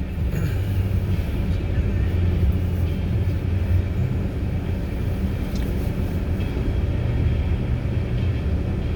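Steady low rumble of a car on the move, engine and tyre noise as heard from inside the cabin.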